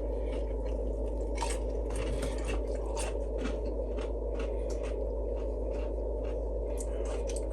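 A person chewing crispy air-fried chicken fries, with irregular crunches, over a steady low background hum.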